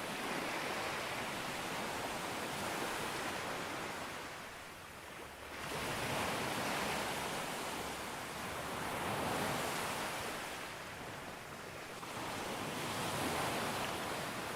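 Ocean surf breaking on a beach and washing back, a steady hiss that swells and ebbs every few seconds. After a short lull, a wave comes in with a sudden surge a little over a third of the way through.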